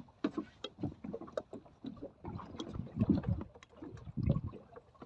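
Choppy water slapping against the hull of a small drifting boat, giving irregular knocks and a few low thumps.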